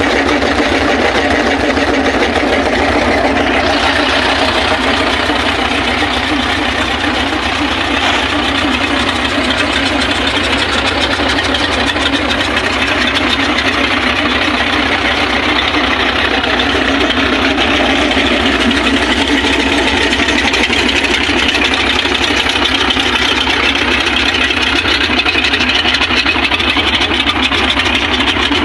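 Nissan Diesel RF8 V8 diesel engine idling steadily just after starting.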